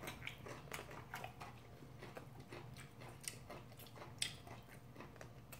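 Faint close-miked eating sounds of people eating ramyeon noodles and kimbap: chewing with many small scattered wet mouth clicks.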